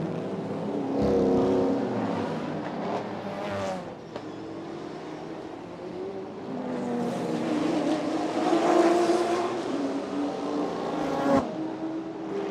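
Race car engines at full throttle, their pitch climbing and dropping with gear changes as cars pass. The sound swells loudest about a second in and again around eight to nine seconds in.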